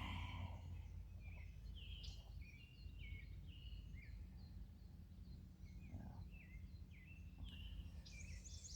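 Faint birdsong: many short chirping calls, with a quick trill of repeated higher notes near the end, over a steady low outdoor rumble.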